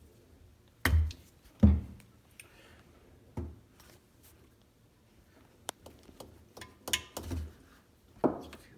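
Irregular knocks, clunks and clicks of hand tools and parts being handled while hoses and connections are undone around a jet ski engine. The two loudest thumps come about a second in and just before two seconds.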